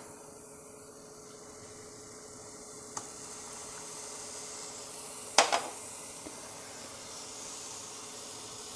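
Onion paste frying in oil in a pan, a faint steady sizzle. A light click comes about three seconds in, and a short knock about five and a half seconds in.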